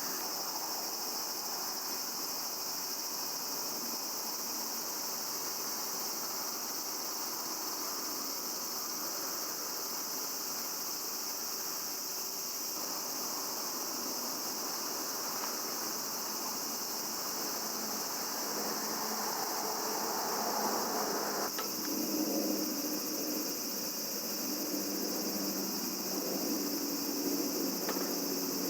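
Summer night insects, such as crickets, chirring in a steady high-pitched chorus, with a sharp click about twenty seconds in and another near the end.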